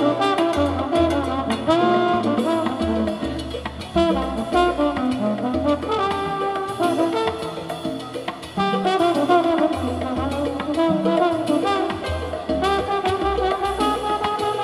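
Live salsa band playing an instrumental passage: a brass section of trumpets and trombones plays phrases over bass, piano and percussion.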